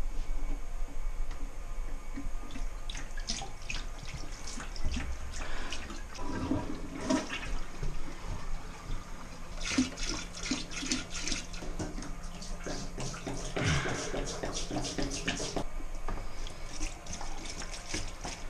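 Water rushing and draining through household plumbing as the water lines are emptied, with scattered knocks and clicks of handling.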